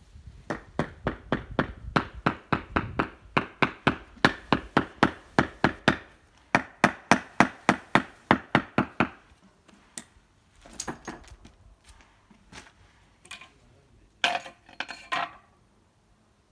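A hammer tapping on slate stone in a quick, even run of knocks, about three or four a second, that stops after about nine seconds. A few scattered knocks and clinks follow.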